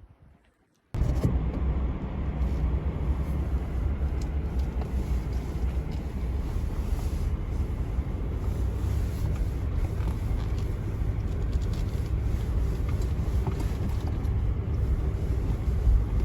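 Steady low rumble with a hiss over it, starting abruptly about a second in and holding evenly.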